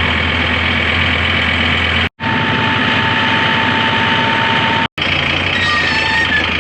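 Farm tractor engine running steadily, a loud, even drone broken by two brief gaps about two and five seconds in.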